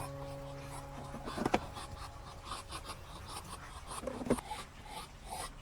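A held musical chord dies away about a second in. Soft scratching and rustling follows, with two light knocks, the first about a second and a half in and the second about four seconds in.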